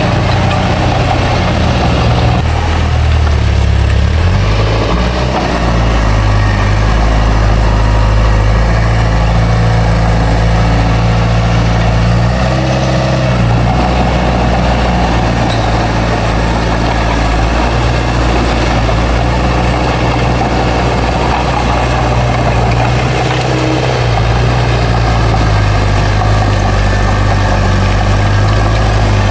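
Bulldozer's diesel engine running steadily, with a few brief shifts in engine speed as it works.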